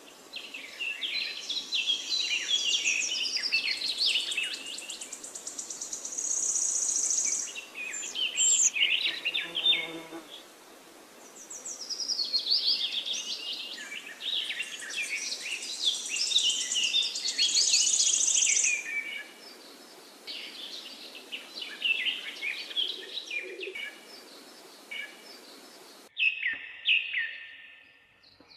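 Several songbirds singing and chirping in overlapping trills and phrases over a steady background hiss of forest ambience. Near the end the background cuts out abruptly, leaving a few quieter bird calls.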